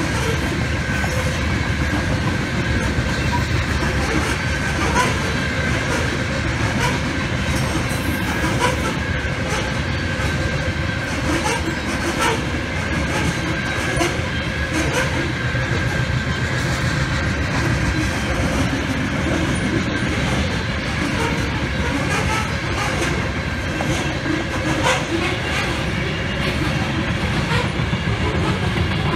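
Loaded covered hopper cars of a unit grain train rolling past close by at track speed: a steady rumble with the wheels clicking over rail joints.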